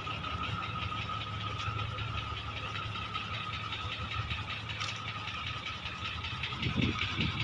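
Diesel engine of a classic long-nose truck idling steadily with a fast, even clatter, growing louder near the end.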